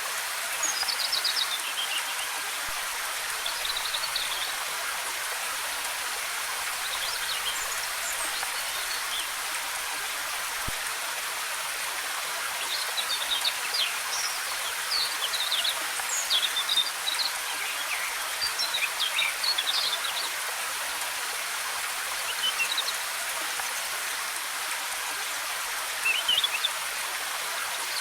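Steady rush of a waterfall with birds chirping over it in short bursts of quick high notes, several in a row through the middle.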